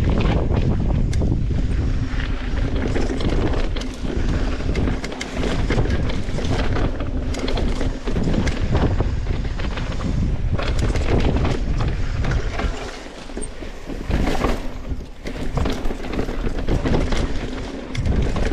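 Wind rushing over the microphone and mountain bike tyres rolling down a rough dirt trail, with frequent rattles and knocks from the bike over rocks and bumps.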